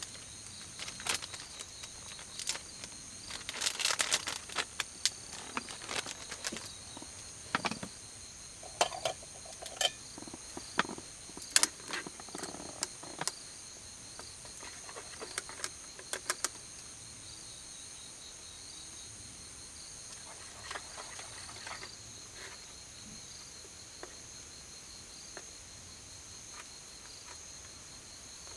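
Night insects chirring in a steady, high, shrill drone, with scattered sharp clicks and knocks over it in the first half.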